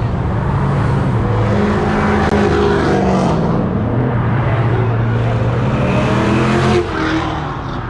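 A sports car's engine running loud as it drives by, its pitch rising and falling with the throttle, cutting off suddenly near the end.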